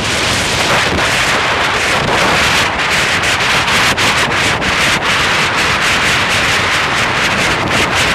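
High wind buffeting the microphone: a loud, steady rush of wind noise with frequent crackles throughout.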